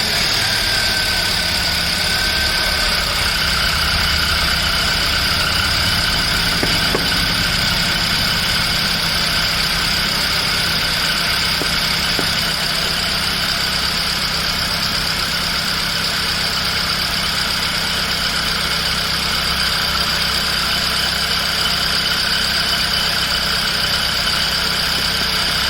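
Hyundai Elite i20 engine idling steadily with the air conditioning switched on, its AC compressor running with a newly replaced compressor control valve. A steady high whine sits over the engine hum.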